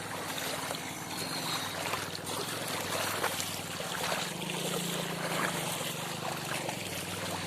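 Floodwater rushing steadily over a river crossing, with a low steady hum underneath.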